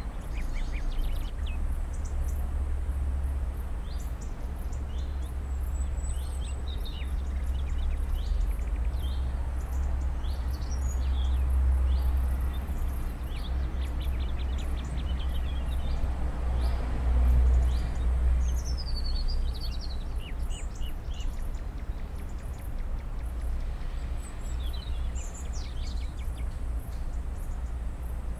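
Small birds chirping and singing in short scattered calls, with a few sweeping phrases, over a steady low rumble.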